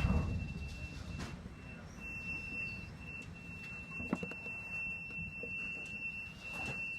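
Low rumble aboard a ship riding heavy seas, with a thin, steady high-pitched tone sounding throughout and a few faint knocks.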